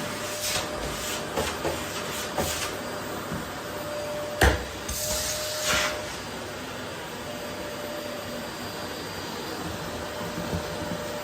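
Vacuum cleaner running steadily over a wooden floor, with a constant hum under the rush of air. Scattered crackles and rattles come in the first few seconds, a sharp knock about four and a half seconds in, then a louder rush for about a second.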